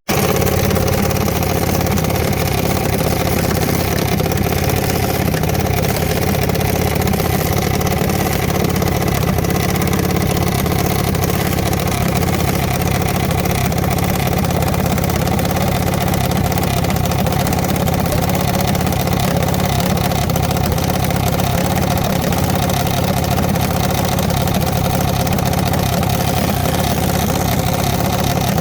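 Engine idling steadily for the whole stretch, with no revving.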